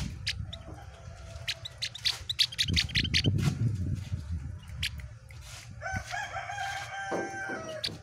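Caged opior, a white-eye kept as a songbird, giving quick sharp chip notes in the first half. Around the middle comes a low rumble, and near the end a rooster crows once for about two seconds.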